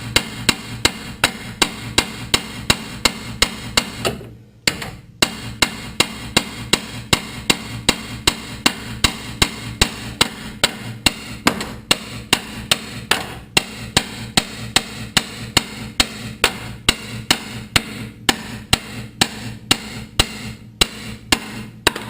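A hammer striking the steel front suspension over and over, about three blows a second with a short break about four seconds in, to knock the worn lower control arm loose.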